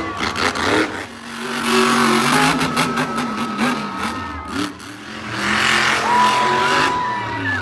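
Monster truck engine revving hard in two long surges, the pitch rising and falling with the throttle.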